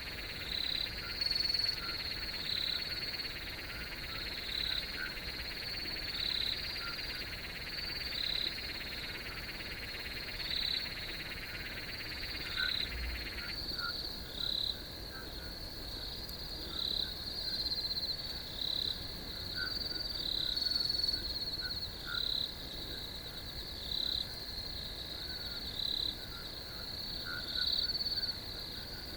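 Night chorus of crickets: a steady high trill with chirps repeating about once a second. A second, lower and denser trill cuts off suddenly about halfway through.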